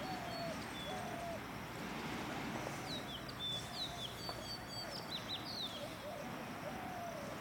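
Birds calling: a short low call repeated about once a second, with a cluster of higher chirps and whistles in the middle, over a steady outdoor hiss.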